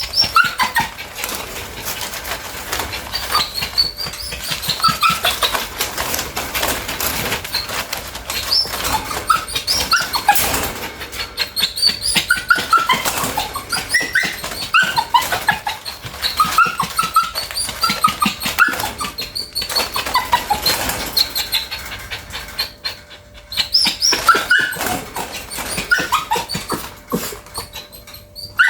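Bichon frise dog whining over and over in short high-pitched cries that rise and fall, with a couple of brief lulls. It is the restless whining of a dog that needs to go out to poop.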